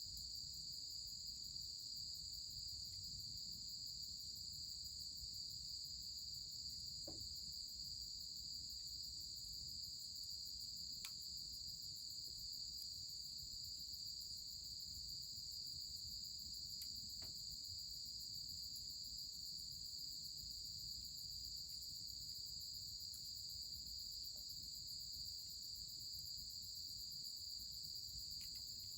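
Crickets chirring in a steady, unbroken chorus, a continuous high-pitched trill, with a few faint ticks now and then.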